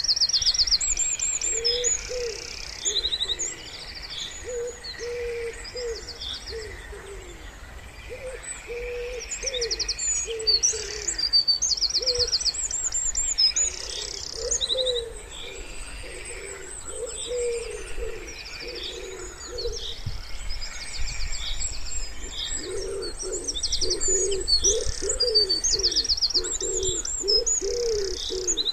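Wood pigeon cooing in repeated low phrases, over a steady chorus of small songbirds singing high, rapid trills and chirps.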